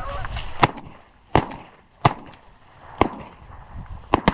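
Shotguns firing at geese: six shots spread over about four seconds, the last two close together.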